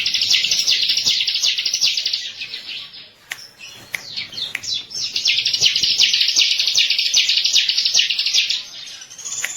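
Bar-winged prinia (ciblek) singing: two long, fast, high chattering trills, the first over the opening three seconds and the second from about four and a half seconds to near the end, with a few short single notes between them.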